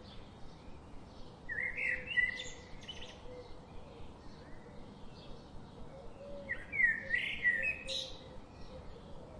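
Birdsong: two loud warbling song phrases about five seconds apart, over faint scattered chirping from other birds.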